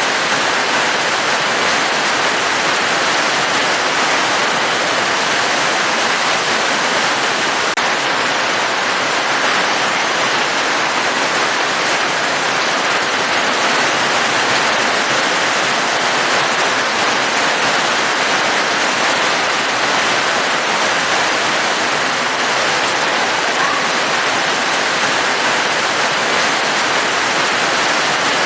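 Steady heavy rain: a dense, even hiss that does not change, with no single drops standing out.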